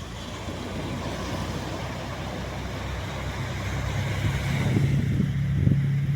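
Waves washing on a sandy shore, with a steady engine drone coming in about four seconds in and growing louder.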